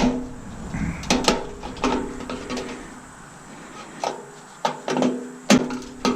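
Irregular metal clanks and knocks, several with a short ring, as the stainless steel housing and parts of a Bunn-O-Matic coffee maker are struck and worked apart. About a dozen hits, with a quieter stretch in the middle.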